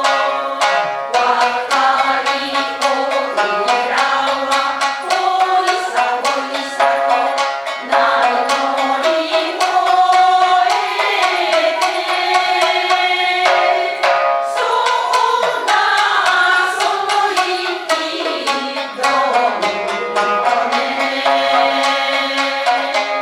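Japanese folk song (min'yō) sung by a group to shamisen accompaniment, the strings plucked in a quick, steady rhythm under the voices.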